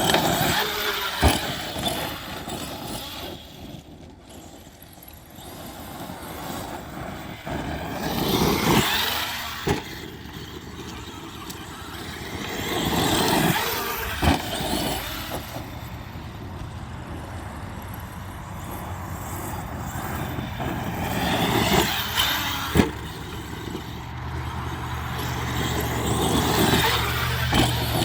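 Arrma Kraton 8S RC monster truck's brushless electric motor whining as the truck speeds up and passes several times, with its tyres running over the ground in between and a few sharp knocks.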